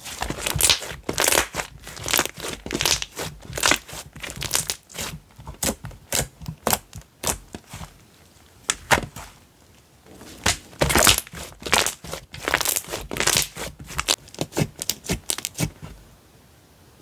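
Slime being squeezed, stretched and poked by hand, a fast irregular run of crackling, squishing sounds with a short lull about halfway through.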